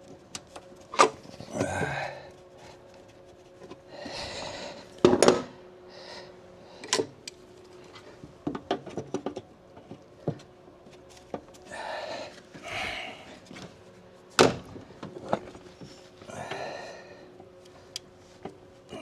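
Hand tools and plastic and metal parts being handled in a car's engine bay while hoses and connectors are taken off: scattered sharp clicks and knocks with soft rustling between them, over a faint steady hum.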